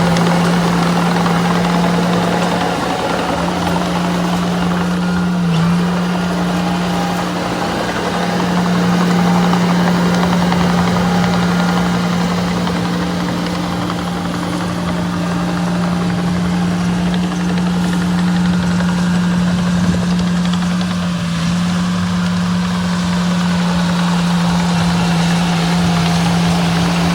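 Diesel engine of heavy earthmoving machinery running steadily, a constant low hum with no change in speed.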